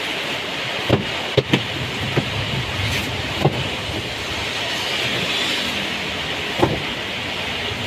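Heavy rain pouring steadily, with a few sharp knocks scattered through it.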